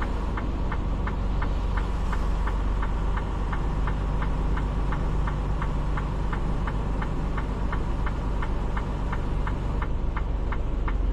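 Semi truck's diesel engine running steadily, with a light ticking about four times a second over it.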